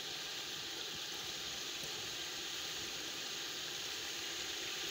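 Chicken pieces frying with ground tomatoes in a cooking pot, giving a steady, even sizzle.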